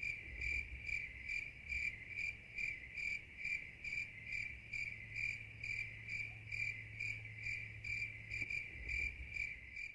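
Cricket chirping: a high, steady trill pulsing about three times a second, starting and stopping abruptly.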